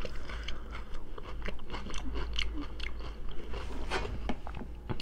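Crunchy chewing of raw cucumber, a run of quick wet crunches and clicks.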